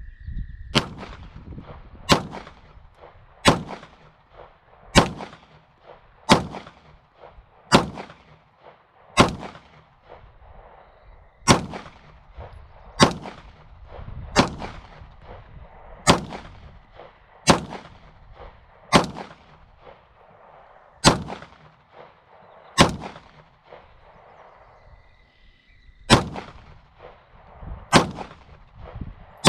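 Polymer80-framed Glock 19-pattern 9mm pistol with an uncapped threaded barrel firing about nineteen single shots in slow, steady succession, roughly one every second and a half, with a pause of about three seconds near the end. Each shot is a sharp crack with a short echo, and the pistol cycles without any failure to feed or eject.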